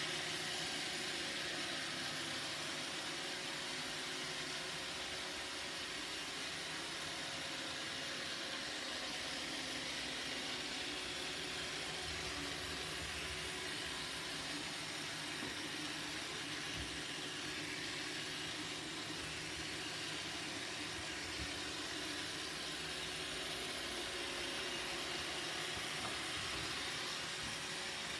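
Roomba robot vacuum running: a steady whir of its suction motor and brushes with a constant hiss.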